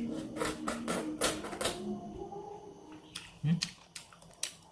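Mouth sounds of someone chewing roasted chicken: a quick run of sharp smacking clicks under a low murmured voice in the first two seconds, then a few scattered clicks.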